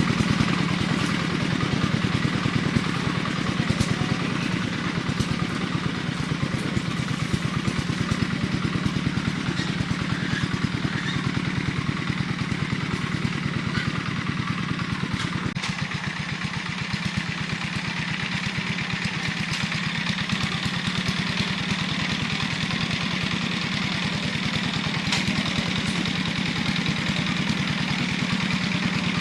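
A small engine running steadily at a constant speed, with a slight change in its tone about halfway through.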